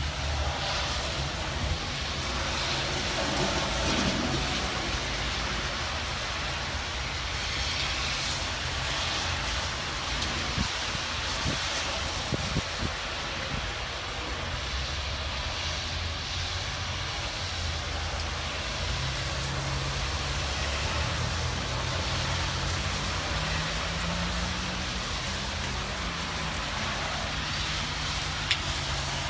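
Heavy thunderstorm rain falling on wet pavement, a steady hiss, with a low rumble running underneath.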